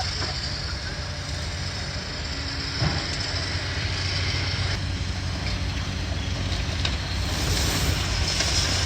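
Demolition excavator's diesel engine running steadily, with a few scattered knocks of debris, growing a little louder near the end.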